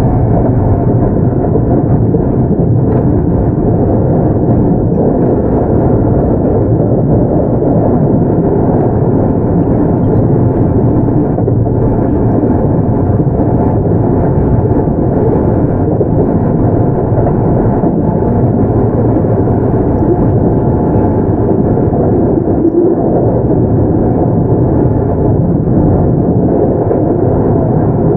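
Keio 8000 series electric train running steadily on the line, with a continuous rumble of wheels on rails and bogies heard from inside the car. A faint steady hum near the start fades away.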